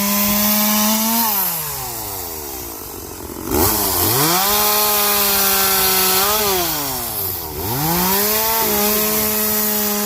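Gas chainsaw running at full throttle. About a second in, the throttle is let off and the engine speed falls away. It revs sharply back up, eases off briefly a second time past the middle, and goes back to full revs.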